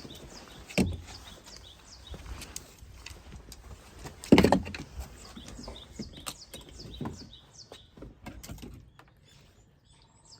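Wooden knocks and thumps of split firewood being picked up and dropped by a retriever, with one sharp knock under a second in and the loudest thump just past four seconds. Small birds chirp repeatedly in the background.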